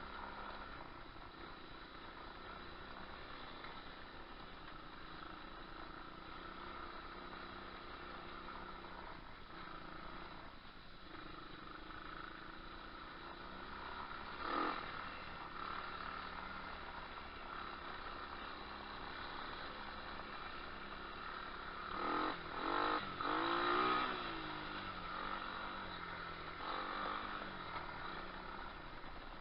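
Moto4 125cc pit bike's engine running, with a sharp rev about halfway through and a quick run of three or four revs a little later, the pitch rising and falling with each.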